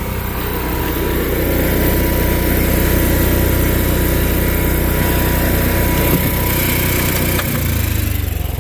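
Onan 4000 RV generator running steadily under power, fed by gravity from an auxiliary fuel tank through a short fresh fuel line. Its low hum shifts slightly about seven and a half seconds in.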